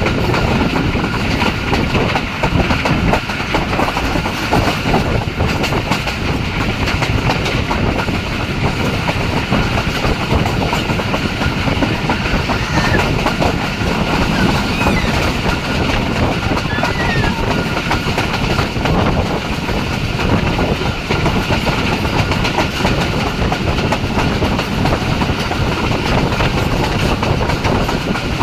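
Passenger train running at speed: a steady rumble from the wheels on the track with the clickety-clack of wheels over rail joints.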